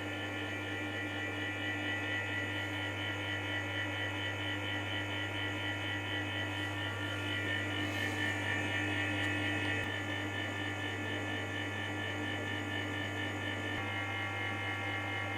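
MAX BS-141H-2 bathroom heater-dryer fan running with a steady hum and a whine of several steady tones: the abnormal noise it develops after eight years of use, which a motor bearing replacement is said to cure.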